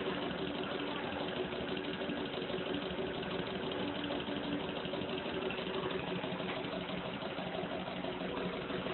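Stirling engine running steadily: a continuous mechanical hum with a fast, even rattle.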